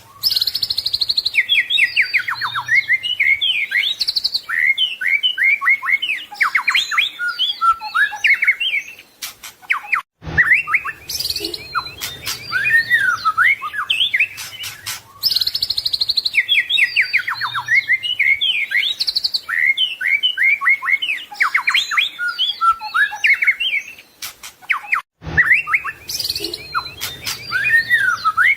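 White-rumped shama (murai batu) singing a fast, varied song of clear whistles, trills and chattering notes, broken twice by a short pause. The same run of phrases repeats about every fifteen seconds, as in a looped training recording.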